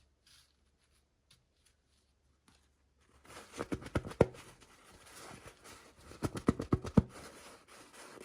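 Toy packaging and small plastic pieces being handled: rustling with a run of sharp clicks and taps, starting about three seconds in.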